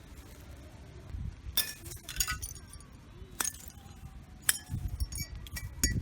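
A series of about six sharp clinks of hard objects at irregular intervals, some with a short high ringing after them.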